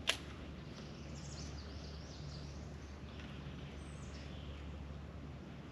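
Faint bird chirps and calls over a steady low hum, with a single sharp click right at the start.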